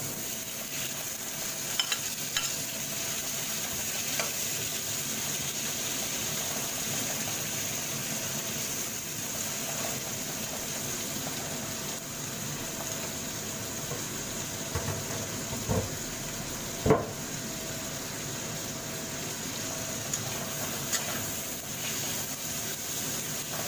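Tomato wedges frying in hot oil in a metal wok: a steady sizzle, with a metal spatula stirring and scraping them. A few sharp clicks of the spatula on the wok, one loud knock about two-thirds of the way through.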